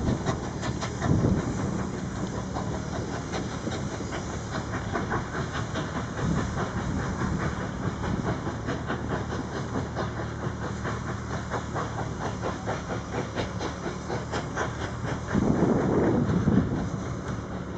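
A train running, with a steady hiss and a rapid, regular clicking. Louder rumbling swells come about a second in and again near the end.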